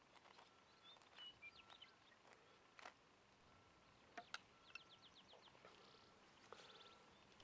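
Near silence: faint outdoor ambience with distant bird chirps and two short trills, and a few soft clicks.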